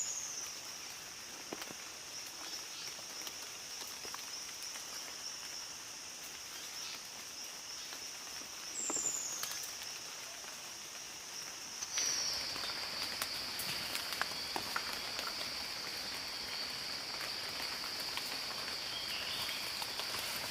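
Forest ambience: a steady high-pitched insect drone that gets louder about twelve seconds in, with a few short falling bird chirps and scattered faint rustles and clicks.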